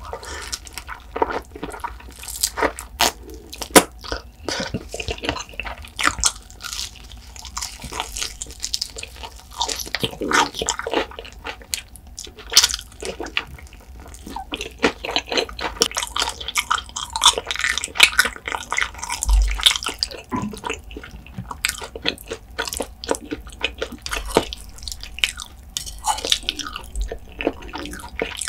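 Close-miked chewing of saucy, crisp-coated fried chicken: irregular crunches mixed with wet, sticky mouth clicks.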